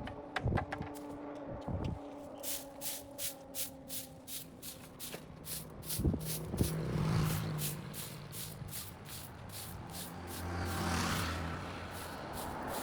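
A vehicle going by on the road, with a rapid, even ticking of about four clicks a second throughout.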